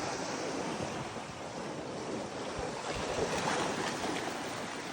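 Ocean waves washing on the shore, with wind on the microphone; the surf swells louder about three seconds in.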